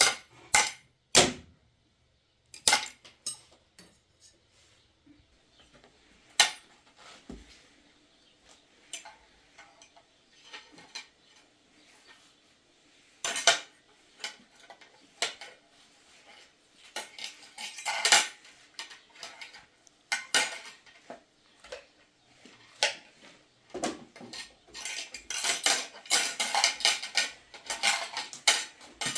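Irregular sharp clinks and clatters of hard objects knocking together, a few at a time at first and coming thick and fast near the end.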